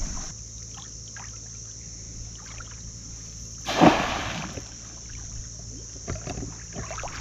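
Shallow water sloshing at the shoreline, with one louder rush of water about four seconds in, over a steady high-pitched drone.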